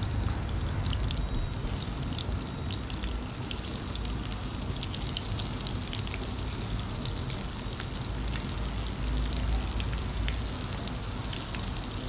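Spiced eggplant pieces sizzling in hot oil in a pan, a steady hiss full of fine crackling pops. The sizzle grows brighter about two seconds in as more pieces go into the oil.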